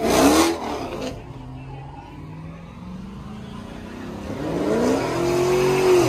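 Car engines revving hard at a burnout: a loud rising rev as a white Chevrolet Camaro pulls away at the start, a steadier lower engine sound, then a pickup truck's engine climbing in pitch and holding high as its rear tyres spin and smoke near the end.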